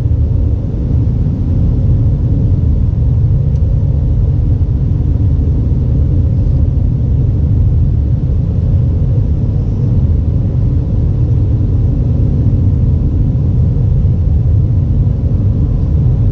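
Steady low rumble of Airbus A320 cabin noise heard from inside the passenger cabin, even in level throughout, with a faint steady hum above it.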